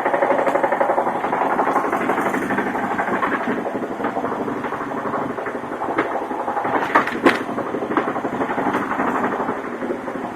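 UZAM-412 inline-four engine running with a fast, steady knock from the connecting rod of the fourth cylinder, the sign of a worn rod bearing. Two sharper knocks stand out about seven seconds in.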